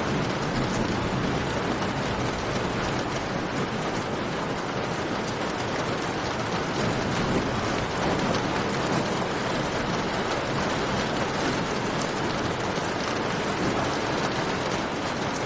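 Steady heavy rain, a dense even hiss, with a campfire's faint crackles mixed in.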